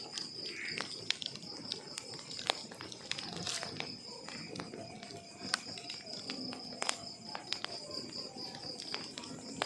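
Wood logs burning in a fireplace, crackling steadily with irregular sharp pops, the loudest about a second in, two and a half seconds in and around five and a half and seven seconds in. A steady high-pitched pulsing tone runs underneath.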